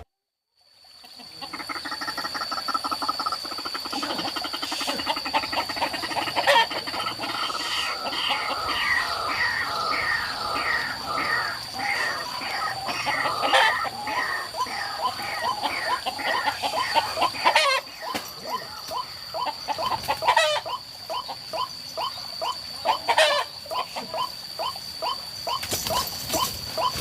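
White-breasted waterhen (ruak-ruak) calling in a long, fast series of repeated falling notes, about two a second, starting a second or so in. A steady high-pitched whine runs underneath, with a few sharp clicks.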